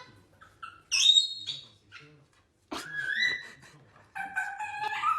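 A pet animal making a series of high-pitched whining calls: short ones about one and three seconds in, then a longer held call near the end.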